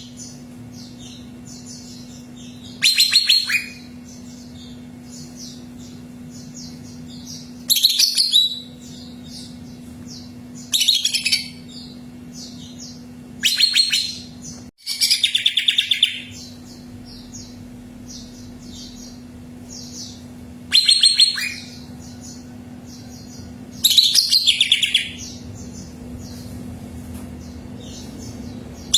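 Green leafbird (cucak ijo) singing in loud, rapid trilled bursts of under a second, repeated every few seconds, with faint short chirps in between. A steady low hum runs underneath.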